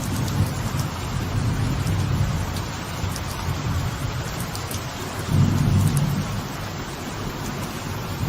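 Steady light rain falling on a veranda, with sharp drips, under low rolling thunder that swells again about five seconds in.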